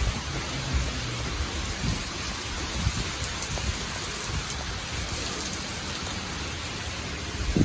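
Heavy rain pouring down in a steady hiss, with a low uneven rumble underneath.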